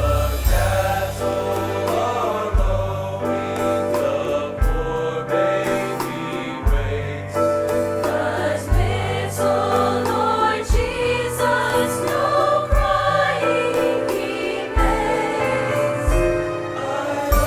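A choir singing a song with band accompaniment: a bass line that moves to a new note about every two seconds, under a steady beat.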